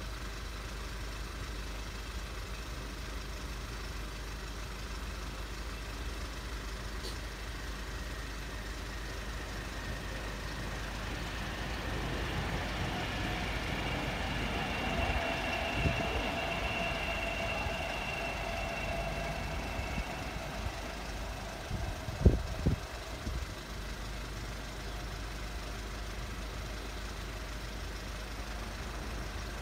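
A train passing over the level crossing: the rumble swells midway with a faint steady hum, and a few sharp knocks come near the end of the pass.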